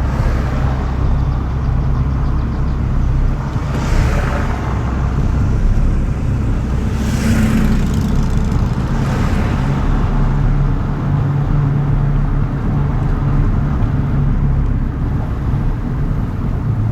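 A steady low vehicle rumble, with a few passing swells of rushing noise.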